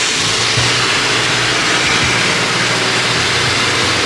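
A car engine running steadily, with a constant even hiss over it.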